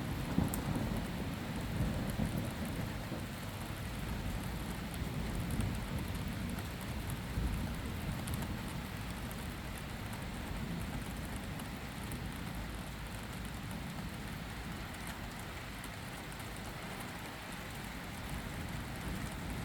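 Steady rain falling during a thunderstorm, with a low rolling rumble of thunder, strongest in the first several seconds and slowly dying away.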